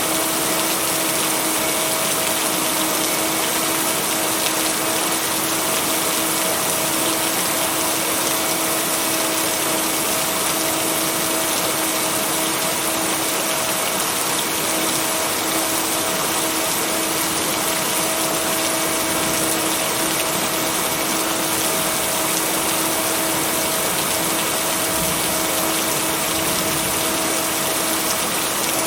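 Steady, dense rain noise with no thunder, layered with a steady low humming tone and its overtone: a binaural-beat track mixed under the rain.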